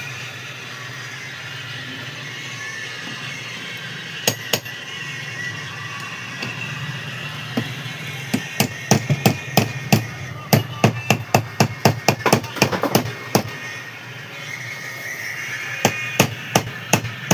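Hammer tapping on metal while a new bush and its retaining plate are fitted and locked into a mixer grinder motor housing: two taps, then a quick run of about twenty taps at roughly four a second, then a few more near the end.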